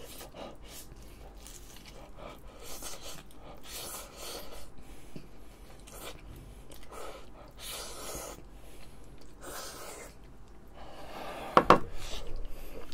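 Close-miked chewing and mouth sounds of a man eating spoonfuls of kimchi fried rice, coming as a run of short, soft, wet smacks and breaths. Near the end there is one sudden, much louder sharp sound.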